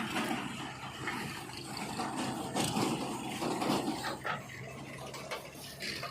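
JCB 3DX backhoe loader's diesel engine running under irregular clattering and rushing noise, loudest from about two and a half to four seconds in.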